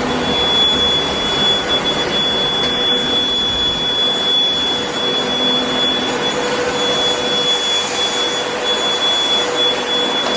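Deerma cordless vacuum cleaner running steadily at strong suction: a loud rush of air with a steady high-pitched motor whine over it.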